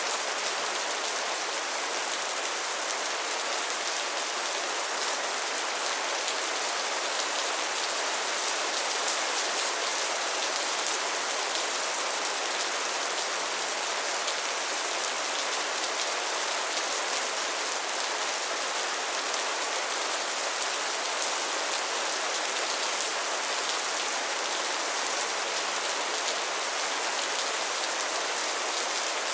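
Steady rain falling, an even hiss with fine patter of drops hitting a surface.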